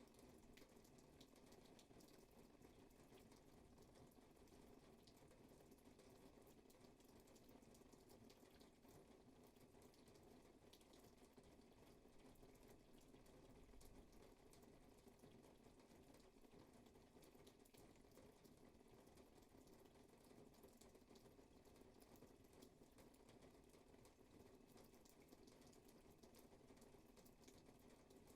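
Faint, steady rainfall, with many fine ticks of individual drops over a soft, even wash.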